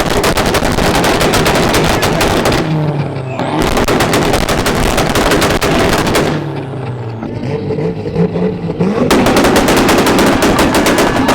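A car's engine held on a two-step launch rev limiter, its exhaust banging and crackling in rapid machine-gun-like pops. There are three long volleys, with short gaps of lower engine running in between.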